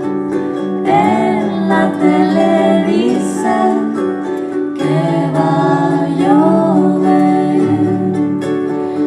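A song: a woman's voice singing over a plucked-string accompaniment.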